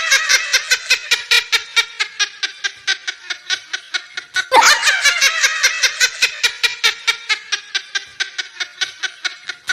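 High-pitched laughter in a fast run of evenly spaced 'ha-ha' pulses that slowly fades. The same laugh starts over about four and a half seconds in.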